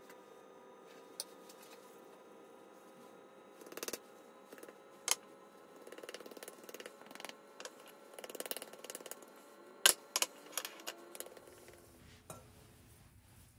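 Scattered light clicks and knocks of objects being handled, with a sharper knock about ten seconds in, over a faint steady hum.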